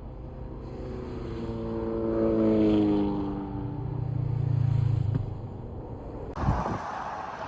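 Motorcycle engine running, its pitch falling over a few seconds and then settling into a steady low drone. About six seconds in the sound changes abruptly to a steady rushing noise, with a short thump.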